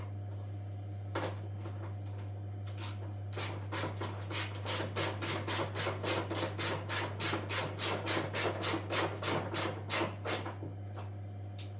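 Rapid rhythmic rubbing strokes, about four a second, start a few seconds in and stop near the end. A steady low electrical hum runs underneath.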